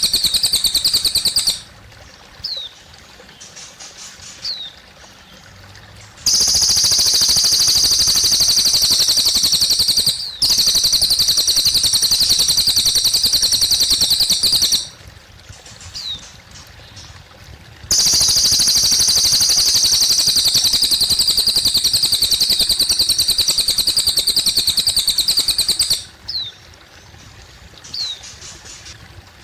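Cililin songbird singing long, very rapid high-pitched trills, each lasting several seconds, broken by pauses with short thin falling whistle notes. Faint trickling water runs underneath.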